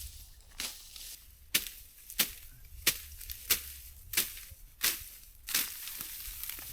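Steady chopping with a blade: about eight sharp, evenly spaced blows, roughly one every two-thirds of a second.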